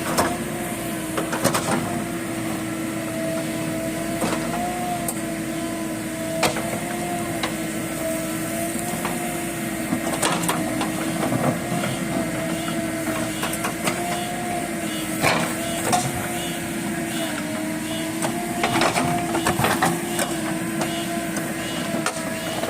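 JCB backhoe loader running at steady revs, a pitched hum that wavers slightly, with scattered sharp clanks and knocks.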